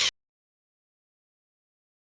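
Dead digital silence, broken only at the very start by a brief hiss of noise that cuts off abruptly.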